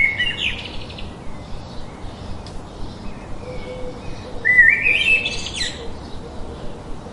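A songbird singing: a short phrase at the very start and another about four and a half seconds in, each a quick run of notes stepping upward in pitch, with fainter chirps from other birds between them.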